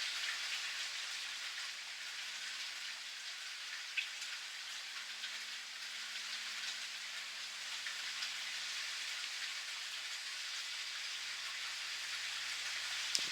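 Steady rain falling, an even hiss of drops with scattered individual drops ticking sharply, one standing out about four seconds in.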